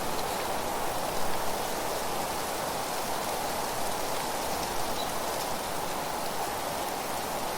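Wind rushing through leaves: a steady, even hiss with a slight swell about a second in.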